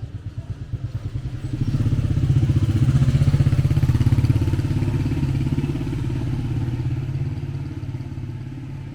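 A motor vehicle's engine running with a low, rapid pulsing beat. It grows louder about a second and a half in, then slowly fades as the vehicle passes close by.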